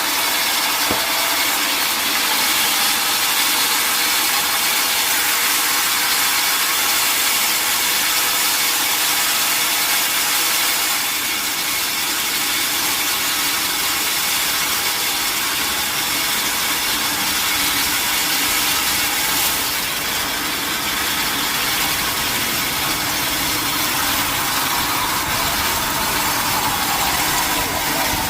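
Sawmill saw cutting through a mahogany log: a steady, continuous sawing noise over running machinery, dipping slightly twice.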